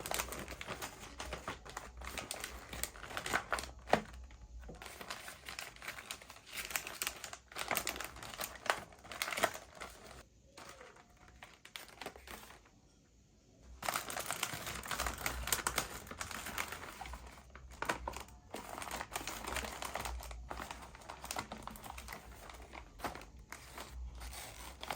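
Plastic packaging crinkling and crackling as items are handled, in dense irregular bursts with a brief pause about halfway through.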